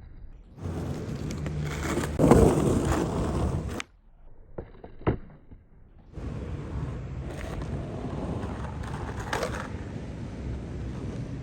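Skateboard wheels rolling, with a loud clack of the board about two seconds in. The rolling stops abruptly just before four seconds in, and after a quieter stretch with a couple of sharp clicks it starts again at about six seconds and runs on with occasional clicks.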